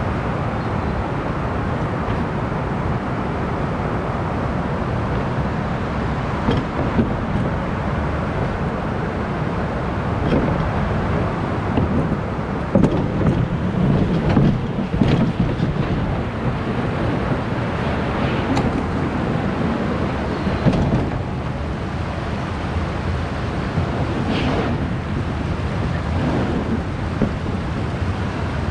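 Steady rushing noise of wind on the microphone over river water, broken by a few short knocks, most of them around the middle.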